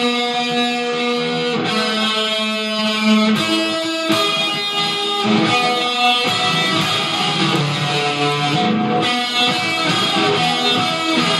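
Electric guitar playing, held notes changing every second or two.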